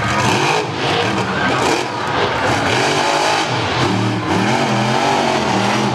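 Monster truck engine revving hard, its pitch climbing and dropping again and again, under a dense wash of noise.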